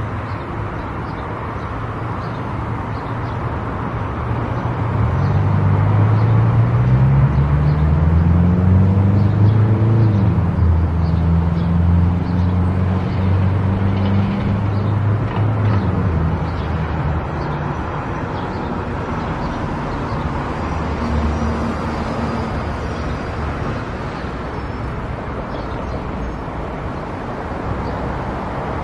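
Car engine and tyre noise while driving. About five seconds in, the engine's pitch rises and it gets louder as the car accelerates. It holds, then eases back to a steady cruise about halfway through.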